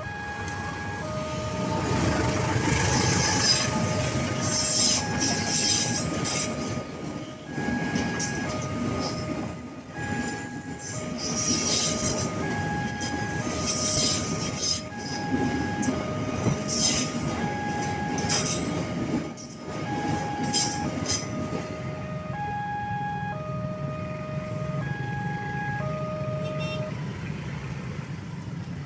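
Railway level-crossing warning alarm sounding two alternating tones over and over while a train passes through the crossing, its wheels clattering over the rails. The train noise dies away about three-quarters of the way in, and the alarm stops near the end.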